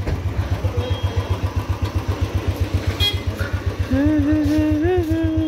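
Motorcycle engine idling with an even, steady thump, about eight beats a second.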